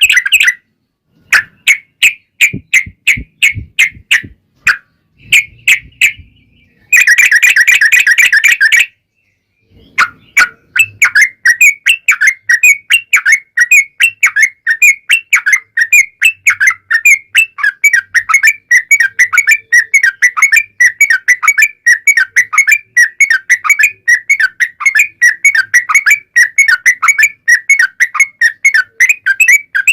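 Yellow-vented bulbul (trucukan) song, bubbly chattering notes. First come separate phrases with gaps and one dense burst. After a short break about ten seconds in, the notes run on unbroken at a rapid pace, the long continuous 'ropel panjang' run.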